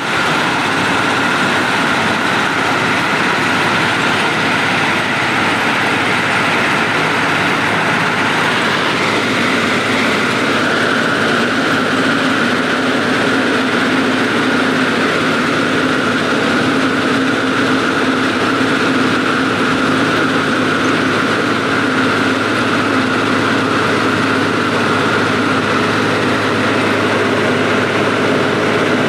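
Train running: a steady, loud mechanical drone with a constant whine that does not change.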